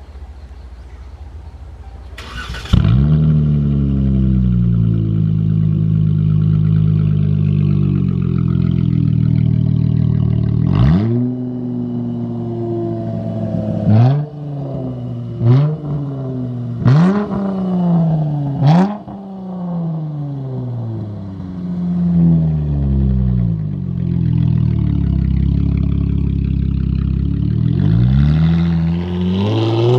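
Dodge Challenger V6 with a straight-pipe exhaust (no mufflers) cranking and catching about two seconds in, flaring up and settling to a loud, deep idle. It is then blipped in about five quick revs in a row, each pitch rising sharply and falling back to idle, and rises again in revs near the end.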